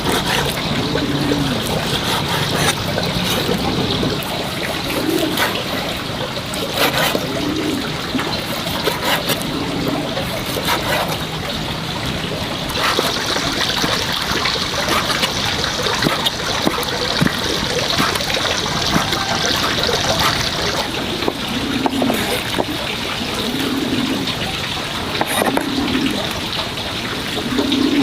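Steady trickling of running water, with small splashes.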